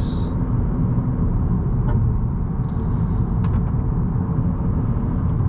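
2018 Honda Accord 1.5T's turbocharged four-cylinder engine pulling steadily under way, with tyre and road noise.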